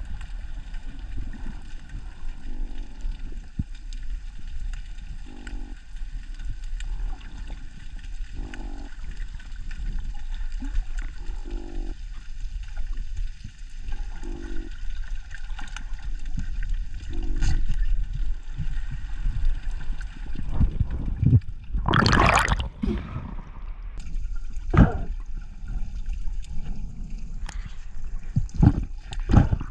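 Underwater recording of a repeated short, pulsed croak every couple of seconds over a low water rumble: the unidentified croaking sound heard on the night dive. About 22 seconds in comes a loud rushing burst of water noise, followed by a few sharp clicks.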